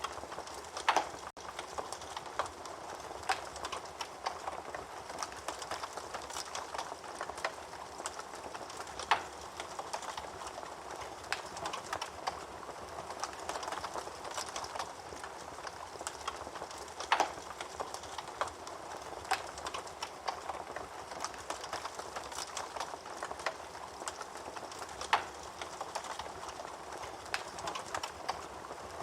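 Wood fire burning in a fireplace: a steady soft hiss with constant small crackles, and four louder pops spaced about eight seconds apart.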